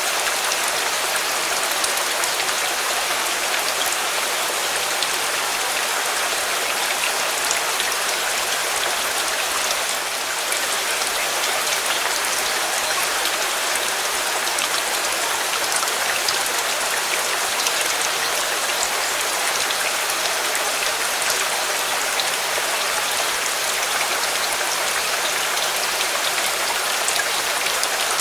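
Steady rain falling: an even, unbroken hiss with scattered small ticks of drops hitting a surface.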